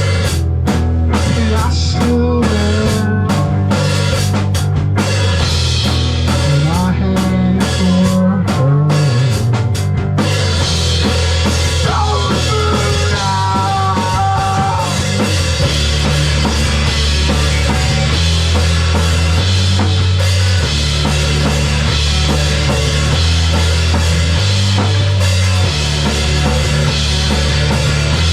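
Live rock band playing, with drum kit and a heavy low bass line; about ten seconds in, the cymbals come in and keep up a steady wash over the drumming.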